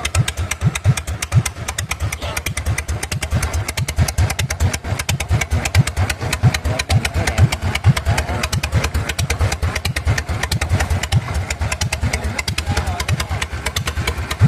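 Custom motorcycle engine idling, its exhaust giving a steady, even run of quick pulses.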